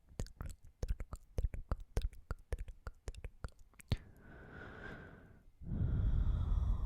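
Close-miked mouth sounds: a rapid, irregular string of wet clicks for about four seconds, then a long breathy yawn that grows much louder about halfway through.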